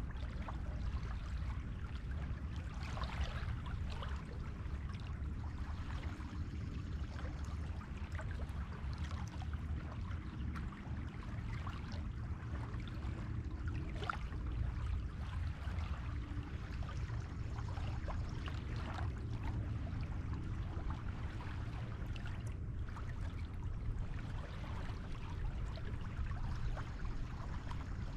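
Sea surf washing on a beach: a steady low rumble with irregular hissing washes of water rising and falling over it.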